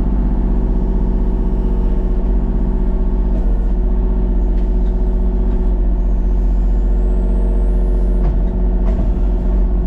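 An engine running steadily at an even speed, with a strong low hum underneath.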